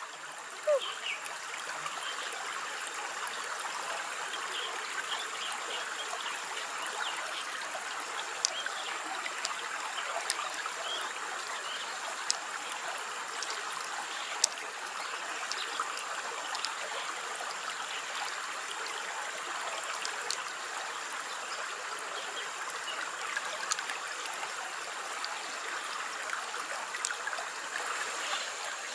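Steady sound of running water trickling, with scattered faint clicks and small splashes.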